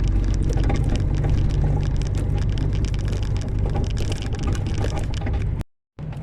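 Inside a moving truck's cab: the diesel engine and road noise make a steady low drone, with a stream of small rattles and knocks from the cab on a rough road surface. The sound cuts out abruptly near the end and resumes as a steadier drone.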